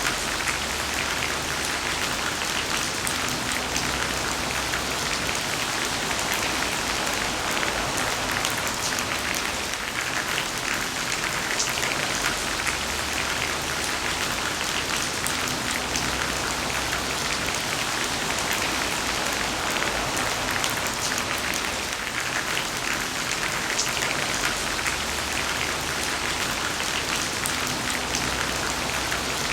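Heavy rain falling steadily: a dense, even hiss of rainfall with many individual drops splashing through it.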